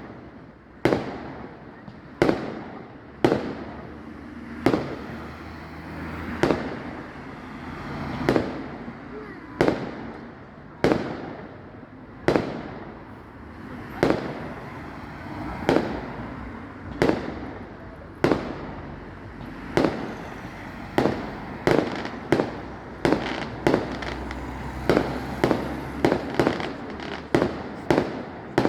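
Fireworks display: aerial shells bursting in sharp bangs that echo away, about one every second and a half. The bangs come faster, under a second apart, in the last third.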